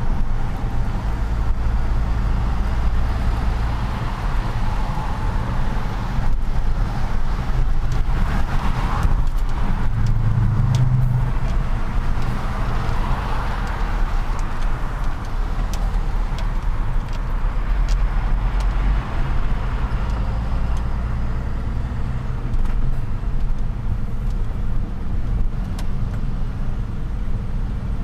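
Truck engine running with road noise while driving in city traffic. The low engine note shifts several times as the truck slows and pulls away.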